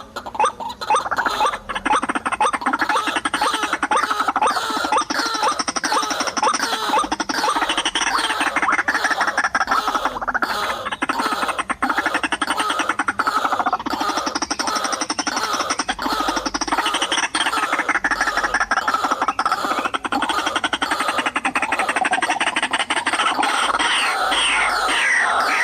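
White-breasted waterhen calling: a long, unbroken run of fast, repeated croaking 'ruak-ruak' notes.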